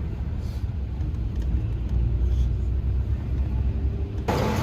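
Low, steady rumble of a moving vehicle, which cuts off suddenly near the end into a brighter, hissing noise.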